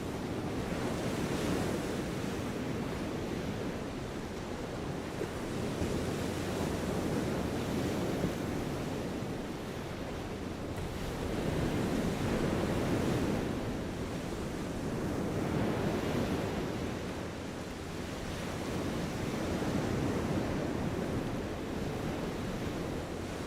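Steady rushing outdoor noise that swells and eases every four to five seconds.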